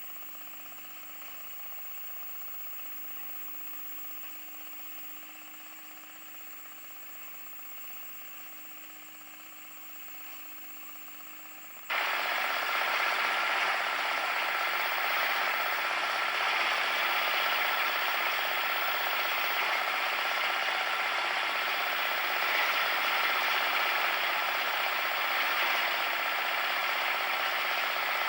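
Cement mixer running, a steady mechanical clatter of its drive gears. About twelve seconds in the sound jumps suddenly much louder and stays loud.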